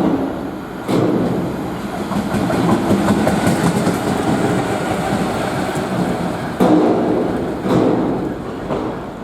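Train passing, its wheels rumbling steadily on the rails, with a few sharper knocks about a second in and again near seven and eight seconds.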